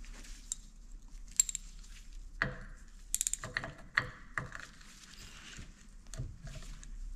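Hand tools working at a seized screw in a cast governor housing: scattered light metal clicks and knocks, with a quick rattle of clinks a few seconds in. The screw is rusted fast from water damage and will not come out.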